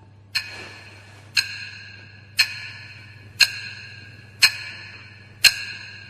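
Clock ticking, six ticks evenly spaced about a second apart, each with a short metallic ring, marking the wait while the noodles finish.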